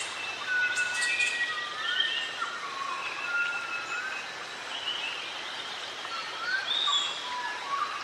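Several wild birds singing together: many short whistled notes, some held level and some sliding up or down in pitch, overlapping over a steady background hiss.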